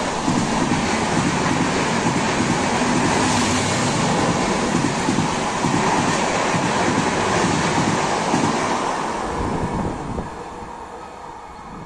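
Express train's passenger coaches passing at speed: a steady, loud rush of wheels on rail and moving air. It fades away over the last couple of seconds as the train recedes.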